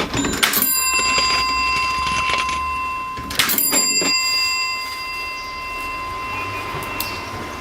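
Vintage cash register: mechanical clunks of the keys and works, each followed by the register's bell ringing, twice, about three seconds apart. Each ring lingers and fades slowly over several seconds.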